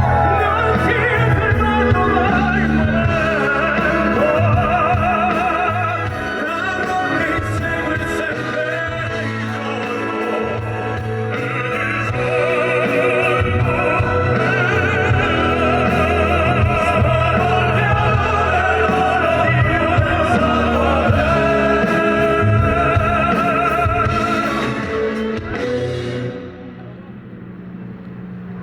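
Male crossover vocal quartet singing in operatic style over an accompaniment, with long held notes sung with wide vibrato. The music ends about 26 seconds in and the sound drops to a quieter level.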